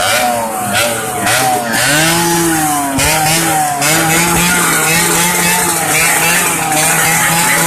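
Yamaha RX-King's 135 cc two-stroke single-cylinder engine revving hard. Its pitch climbs and drops several times over the first three seconds, then holds a steady high pitch.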